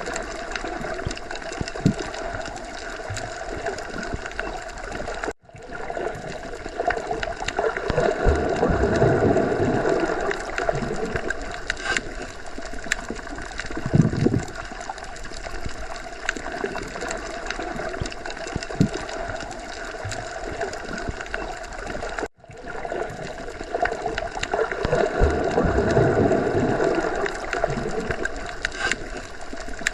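Underwater sea ambience: a continuous muffled watery wash with gurgling, swelling louder twice, with a few low thuds and two brief sudden dropouts where the sound cuts out for a moment.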